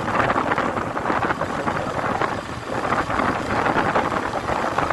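Wind buffeting the microphone on a moving motorcycle, with the engine of the Honda Shine, a single-cylinder commuter bike, running steadily underneath.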